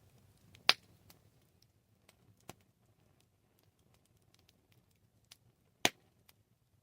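Campfire crackling: scattered faint snaps, with two loud pops, about a second in and near the end, and a smaller one in between, over a faint low rumble.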